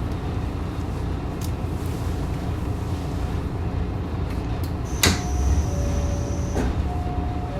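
Train running noise inside the carriage, a steady low rumble. About five seconds in, a sharp click is followed by a two-note tone that alternates between a higher and a lower pitch, with a second click a little over a second later.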